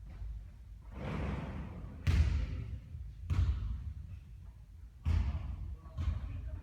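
A basketball bouncing on the court, four sharp thuds spaced about one to two seconds apart, after a softer swishing noise about a second in.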